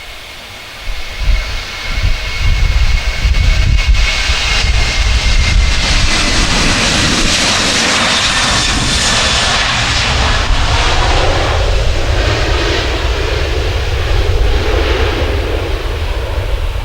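Jet airliner passing close by: engine roar and whine swell over a few seconds, hold loud, then slowly ease, the whine dropping slightly in pitch. Wind buffets the microphone.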